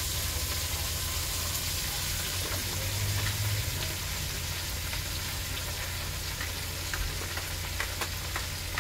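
Chopped cabbage frying in hot grease in a stovetop pot: a steady sizzle, with sharper pops and crackles near the end.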